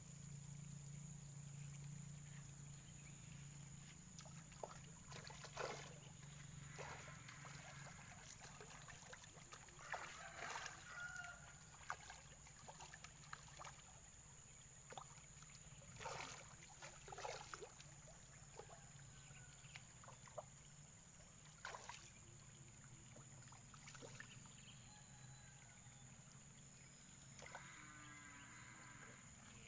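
Quiet outdoor ambience: a steady high-pitched whine and low hum, with scattered faint clicks and knocks and a few short chirps.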